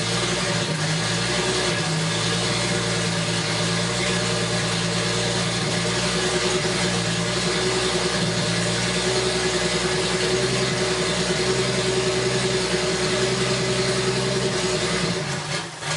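Toyota Supra's built 7M-GTE inline-six with a 67 mm turbo on E85, idling steadily just after a cold start, with a brief drop in level near the end. It is badly tuned and the cams aren't timed: a cold start the owner calls "kind of ridiculously horrible".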